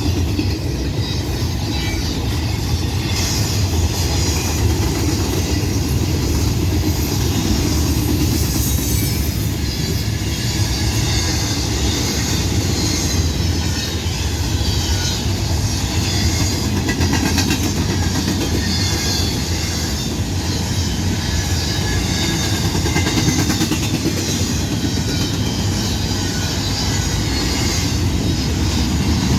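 A long freight train's cars rolling past in a steady stream, their steel wheels running on the rails.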